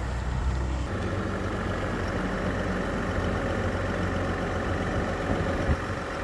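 Pickup truck engine idling steadily, a low even hum that shifts slightly about a second in.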